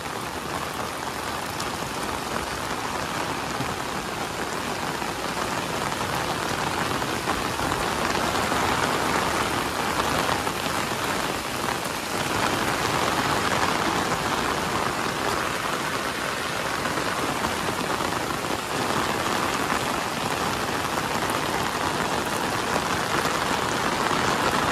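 Heavy rain pouring steadily, a dense even hiss of rain on the ground and surfaces that swells slightly now and then.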